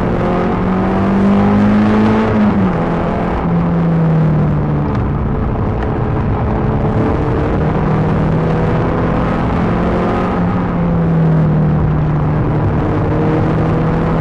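Peugeot 306 GTi-6's 2.0-litre four-cylinder engine under load on track, heard from inside the car. It revs up, drops sharply in pitch about two and a half seconds in as it changes gear or lifts, then rises and falls again twice more, with steady road and wind noise underneath.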